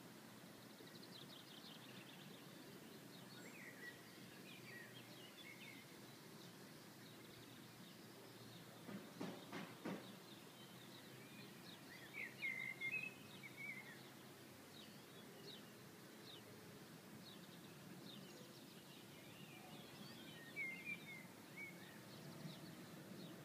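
Quiet outdoor ambience with a faint low hum, and small birds chirping in short bursts, loudest about twelve seconds in and again near the end. A brief knock is heard about nine seconds in.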